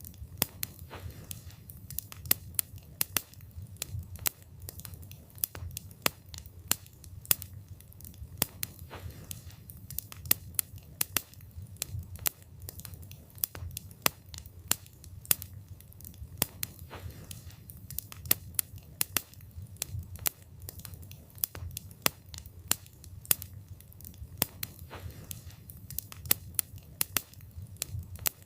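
Wood fire burning with a low rumble of flames and frequent sharp, irregular crackles and pops from the burning wood.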